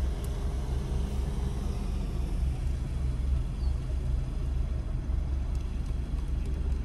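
Steady low rumble of a car's running engine heard inside the cabin.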